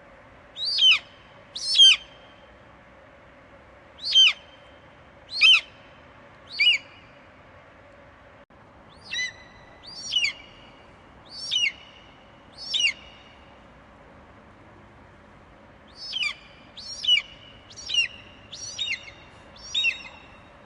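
Eagle screeching: about fourteen short, high calls, each dropping steeply in pitch. They come in three bursts with pauses between, over a steady faint hiss.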